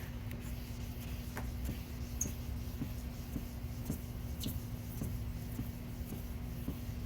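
Wet sandpaper on a soapy wooden block rubbed back and forth by hand over a plastic headlight lens. The strokes come as faint, even scratches about twice a second, over a steady low hum.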